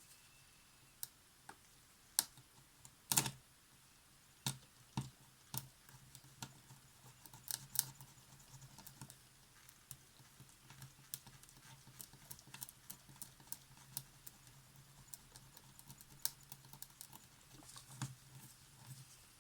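Irregular small clicks and scratches of a hand tool picking at old silicone on the mirror glass of a Polaroid SX-70, over a faint low hum. The sharpest clicks come about two and three seconds in.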